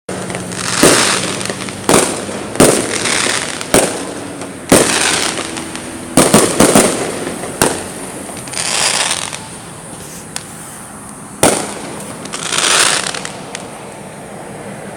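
Fireworks going off: a series of sharp bangs, three in quick succession about halfway through, with longer hissing, crackling bursts between them. The bangs thin out and stop for the last couple of seconds.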